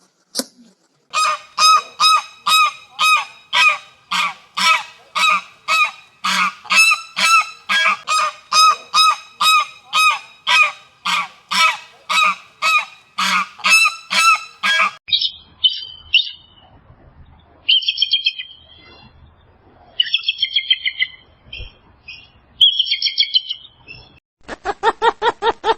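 Repeated calls of a farmyard bird, about two a second for some fourteen seconds, followed by higher, shorter chirping calls. A different, lower animal call starts near the end.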